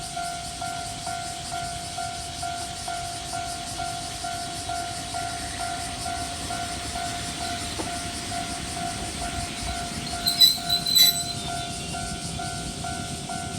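Electric train at a station: a steady high tone over a low rumble, broken about ten seconds in by a few sharp, loud, bright sounds.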